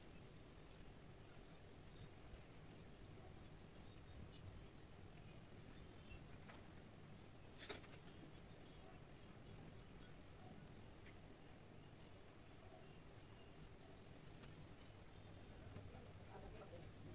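A bird calling in the background: a long run of short, high, falling chirps, about three a second, that thins out to a few spaced chirps near the end. A single faint click about eight seconds in.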